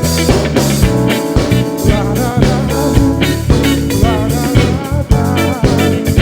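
Live band playing a soul-funk groove with no singing: electric guitar over bass and drum kit, with a steady beat and wavering lead notes through the middle.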